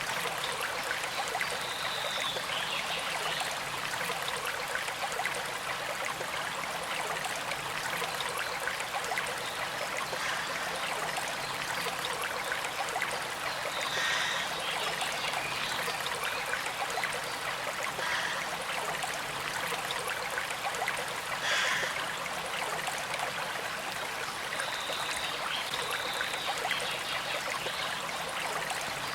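Small stream flowing and trickling: a steady, even rush of water, with a few brief high-pitched notes here and there.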